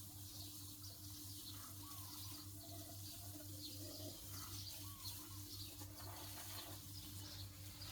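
Faint bird chirps, many short high calls with a few lower curving ones, over a steady low hum.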